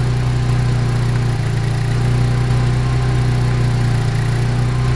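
Saab 90's four-cylinder engine on its Stromberg carburettor idling steadily, its mixture still running lean while it is being tuned.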